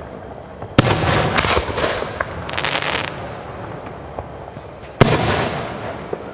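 Aerial fireworks: a sharp boom with a run of crackling pops after it that lasts about two seconds, then a second sharp boom that echoes.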